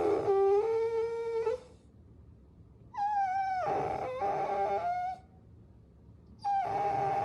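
Puppy whining in long, high-pitched cries, three of them, each held at a fairly steady pitch for about two seconds and dipping slightly at the end.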